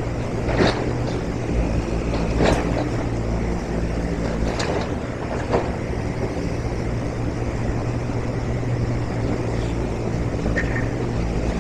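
A steady low engine-like hum, with a few short sharp knocks over the first half.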